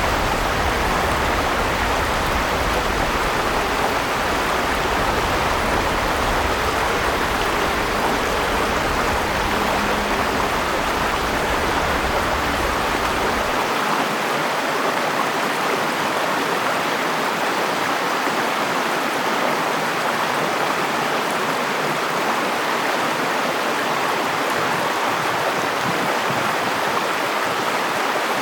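River water flowing and rushing over stones in a steady wash. A low rumble underneath cuts off suddenly about halfway through.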